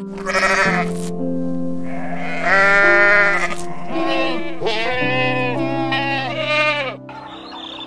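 Goats bleating, a run of long, wavering calls one after another that stop about seven seconds in, over relaxing background music with slow held notes.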